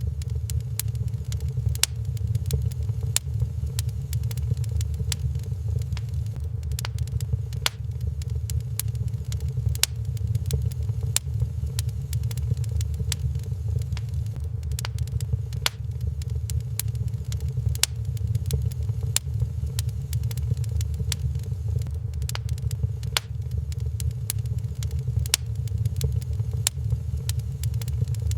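Wood fire in a fireplace crackling, with frequent sharp pops at irregular intervals over a steady low rumble.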